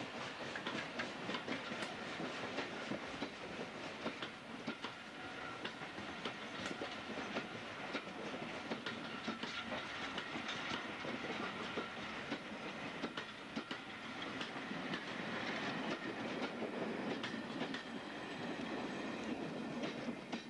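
Passenger coaches rolling past close by, their wheels clattering over the rail joints in a steady run of sharp clicks over a rumble, the sound easing off near the end as the last coach goes by.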